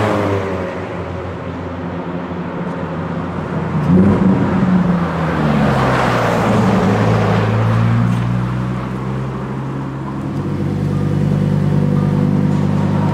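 Lamborghini Huracán Performante's 5.2-litre V10 on its stock exhaust, heard from inside the car at low revs. The note falls at the start, swells briefly about four seconds in, then holds a steady low drone.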